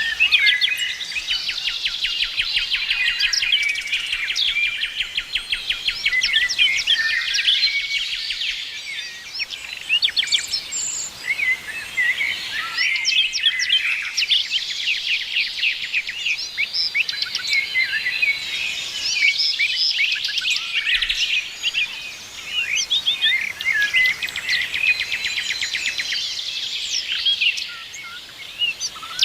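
Several songbirds chirping and singing at once, with rapid trills of quickly repeated notes among the overlapping calls.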